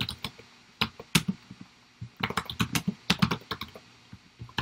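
Computer keyboard typing: scattered keystrokes, then a quick run of them about two seconds in.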